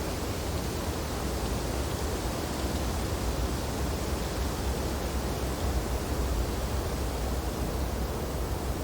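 Wind blowing steadily through tree branches in snowfall: an even rushing with a deep rumble underneath and no distinct events.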